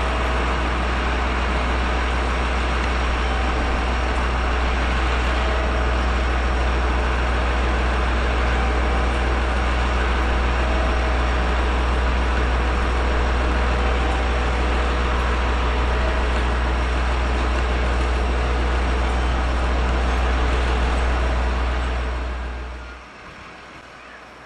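Steady low rumble under a constant hiss from a diesel-hauled freight train standing at a station, cutting off abruptly about 23 seconds in.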